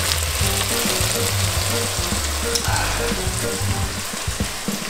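Tomato, pepper and chorizo sofrito sizzling and crackling steadily as it fries in a frying pan, with background music underneath.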